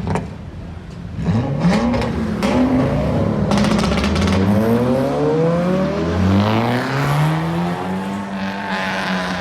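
Car engines revving and accelerating past, their pitch climbing in several overlapping sweeps, with a few sharp cracks over the first four seconds.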